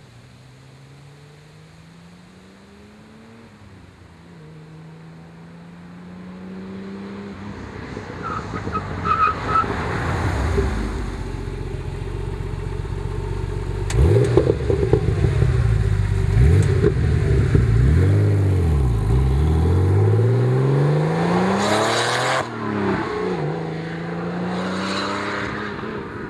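1987 Porsche 930 Turbo's air-cooled turbocharged flat-six running through a dual-outlet Maxflo stainless muffler, accelerating hard, its revs climbing and dropping several times and growing much louder from about eight seconds in.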